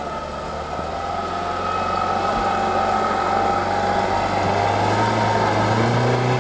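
Off-road vehicle's engine revving up under load, growing louder over the first few seconds and then held at high revs.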